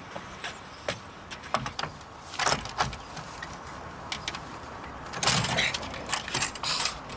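A run of clicks and knocks with two louder scraping rattles, about two and a half and five seconds in, as shutters and a window are worked open.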